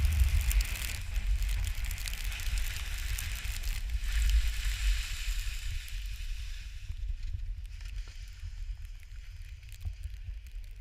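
Wind buffeting the microphone during a downhill ski run, over the hiss and scrape of skis sliding and carving on snow. The low rumble eases off about halfway through.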